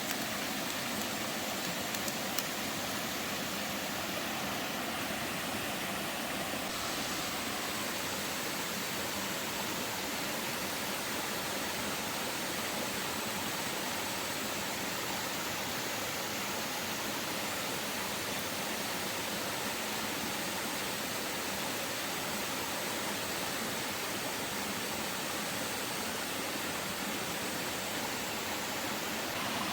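Steady, even wash of water noise, such as rain or running water.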